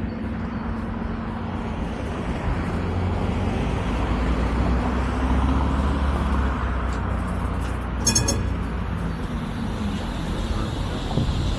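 Vario LF2R.E low-floor tram running along the track: a steady rumble with a low motor hum that swells in the middle. A brief high ringing sound comes about eight seconds in.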